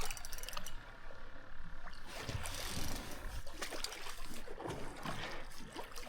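Water sloshing and irregular low knocks against a boat as a large sturgeon is wrestled alongside it.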